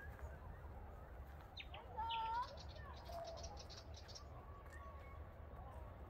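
Birds calling in the open air: a loud two-toned whistled call about two seconds in, followed at once by a quick high trill, and fainter whistled notes later. A low, steady rumble runs underneath.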